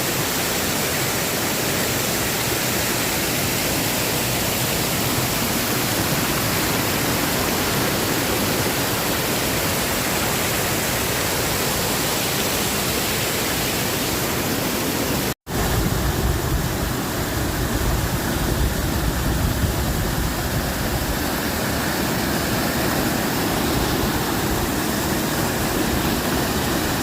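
Small waterfall's water pouring in a steady rush. A brief break cuts in about halfway, after which the rush is deeper and heavier at the low end.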